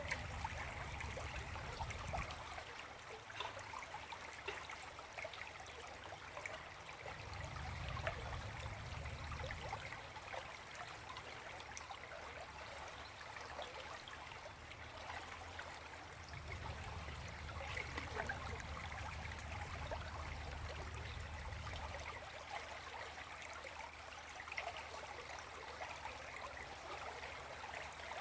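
River water flowing and babbling steadily, with a low rumble that comes and goes a few times.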